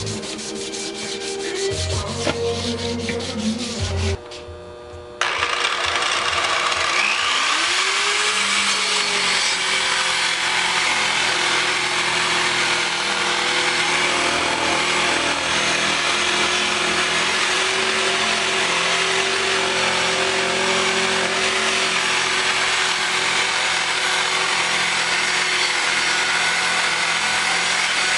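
Aluminum engine parts being sanded and polished: quick rubbing strokes at first, then, after a brief drop about five seconds in, a steady run of abrasive hiss over a machine hum.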